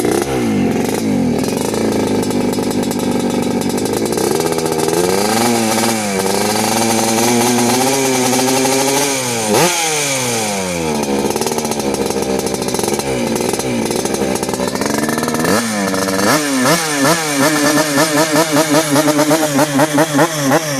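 Yamaha RX-King's 135 cc single-cylinder two-stroke engine running and revved up and down several times. In the last five seconds its note wobbles and the loudness pulses several times a second: the rough 'ngorok' sound that the owner links to the clutch plates (kampas kopling).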